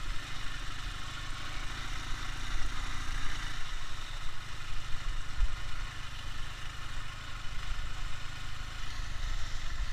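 Ural motorcycle's flat-twin engine running steadily, with no clear rise or fall in revs.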